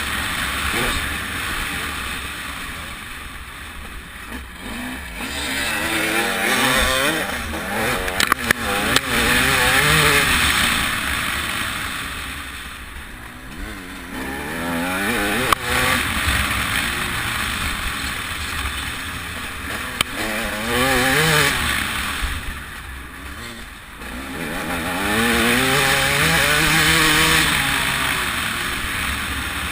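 TM 300 two-stroke motocross bike engine being ridden hard, its revs climbing and falling in repeated sweeps as the throttle opens and shuts, with wind rushing over the microphone. A few sharp knocks come through, around a third and halfway in.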